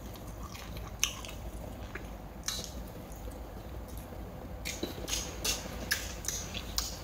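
A person eating raw sea crab at close range: chewing and biting, with scattered short crunches and clicks that come thicker in the last couple of seconds.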